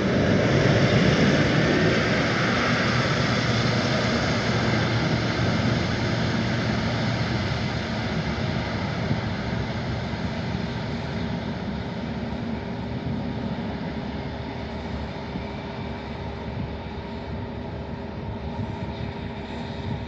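Boeing 777-300ER's GE90 turbofan engines passing loud, then fading steadily as the jet moves away.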